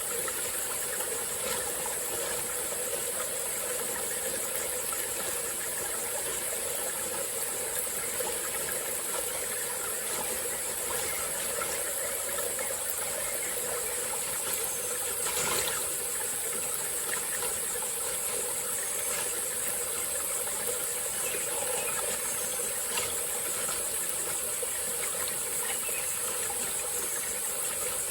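Small forest stream flowing and trickling steadily, under a continuous high-pitched insect chorus. One brief louder sound stands out about halfway through.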